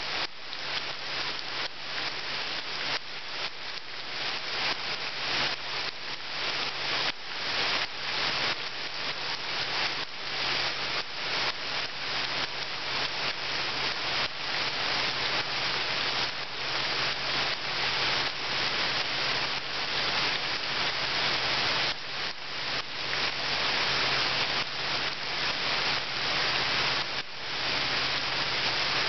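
Steady rain falling into a shallow pool of water, a dense patter of many small drops splashing on the surface.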